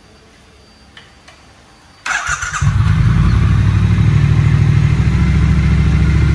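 Triumph Bonneville's parallel-twin engine started on the electric starter: a brief crank about two seconds in, then it catches and runs with a loud, steady, fast low throb.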